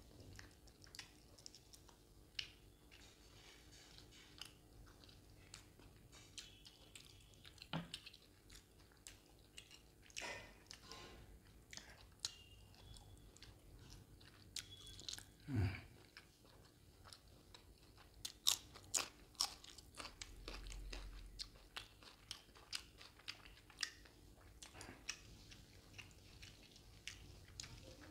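Close-miked chewing of mutton boti curry (tripe) and curry-soaked roti: many short, sharp, irregular wet clicks and bites, coming thicker about two-thirds of the way through, with one deeper thud just past the middle.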